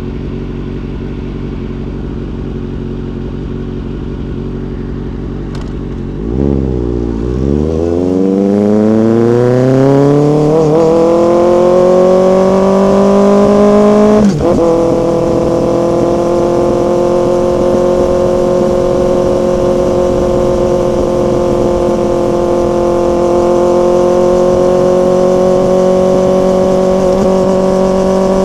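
Motorcycle engine running low and steady, then from about six seconds in accelerating hard with a long rising pitch. About halfway through there is a brief break at a gear change, after which it holds steady at higher revs while cruising.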